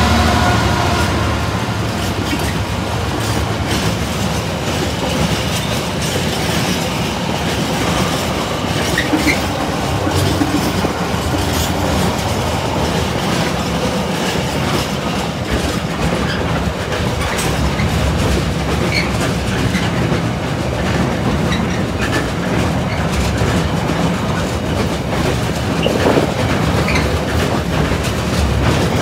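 A Class 66 diesel locomotive's engine passing close by, fading within the first second or so. Then a long freight train of container wagons rolls past with a steady rumble, the wheels clattering and clicking irregularly over the rail joints.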